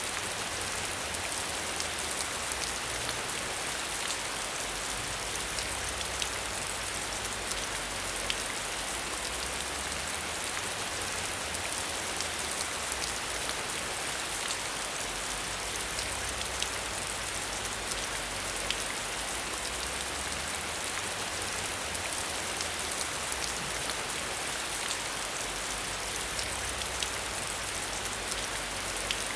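Steady rain falling, a dense hiss with the small ticks of individual drops striking a surface.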